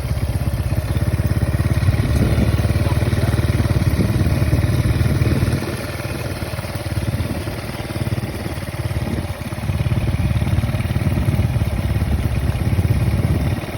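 A small engine running steadily with a low, even pulse; it grows quieter for a few seconds in the middle, then louder again.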